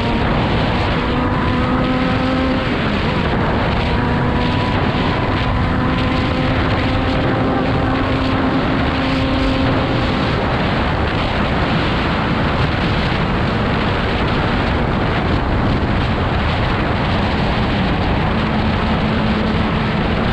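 Yamaha XJ6 inline-four engine running at a steady highway cruise, heard from the saddle under heavy wind noise on the microphone. The engine's hum sinks under the wind about halfway through and comes back near the end.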